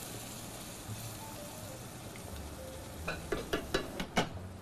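Chicken sizzling in a wok over a very hot fire, a steady frying hiss, with a quick run of sharp clinks about three to four seconds in.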